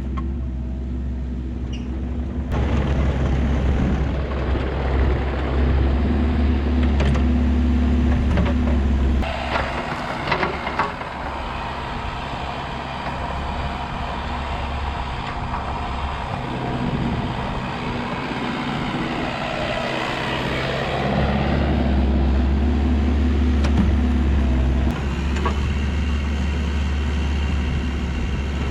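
Kubota KX121-3 compact excavator's diesel engine running under working load, with a steady low drone. About nine seconds in the drone eases and rough crackling and scraping noise rises for some ten seconds, then the engine pulls hard again.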